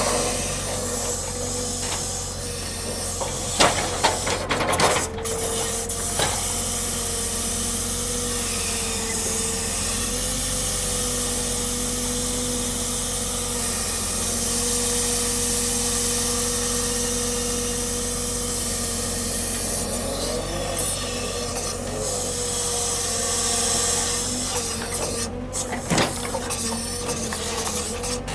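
Log-truck unloading machinery running: a steady whine that wavers slightly in pitch, over a low rumble and a strong hiss. A few sharp knocks come about four seconds in and again near the end.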